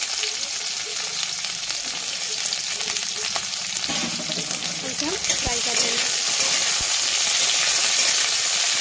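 Drumstick (moringa) pieces and sliced onion sizzling in hot oil in a metal kadhai, with a few sharp clicks of a spatula against the pan. The sizzle gets louder about five seconds in as the vegetables are stirred.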